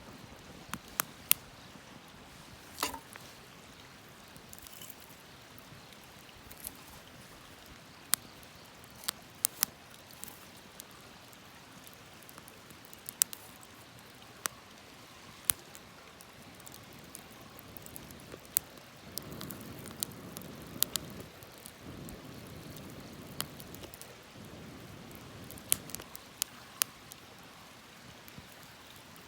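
Wood campfire crackling, with irregular sharp pops and snaps over a faint hiss and a soft low rushing for a few seconds past the middle.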